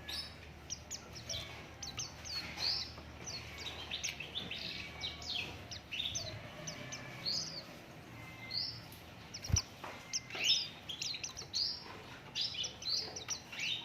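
White-eyes (pleci) singing vigorously, a dense run of quick high chirps and twitters, with one dull thump about two-thirds of the way through.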